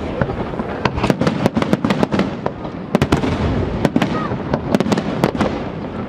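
Fireworks display: a continuous rapid run of sharp bangs and crackles, many per second, over a rumble of echoing reports, with a brief whistle about four seconds in.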